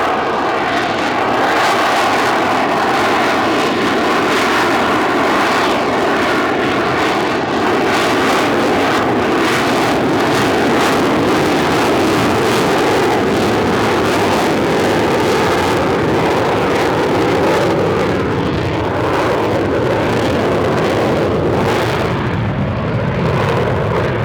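A fixed-wing aircraft's engine running loud and steady as the plane flies, a continuous rushing noise with a crackle in it.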